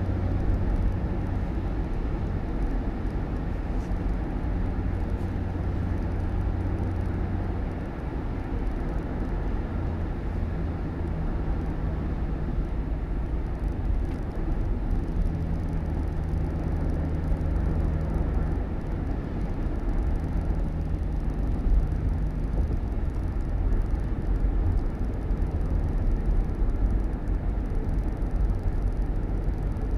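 Motor vehicle running steadily: a low engine hum whose pitch shifts every few seconds as engine speed changes, under continuous road noise.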